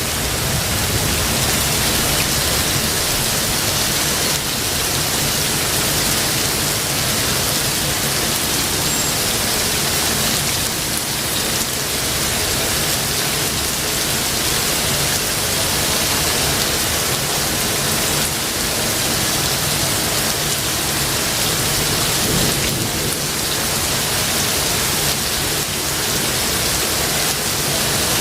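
Steady rain falling, with low thunder rumbling underneath that swells near the start and again a little over three-quarters of the way through.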